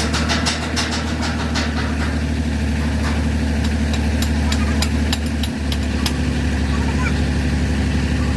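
Truck engine idling steadily, with many short sharp clicks or taps over it, most of them in the first half.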